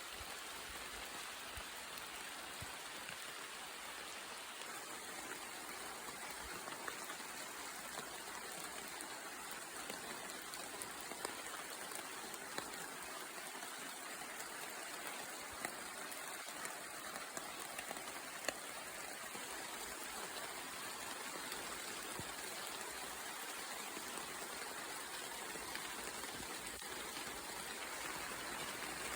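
Steady rain falling in a forest, an even patter with a few sharper drips standing out now and then.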